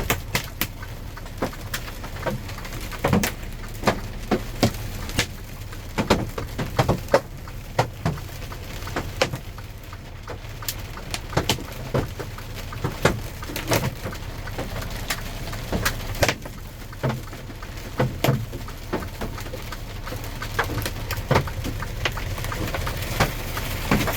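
Hailstones striking the semi truck's windshield and cab: irregular sharp cracks and knocks, some much louder than others, over the truck's steady low running hum. The hail is hard enough to crack the windshield.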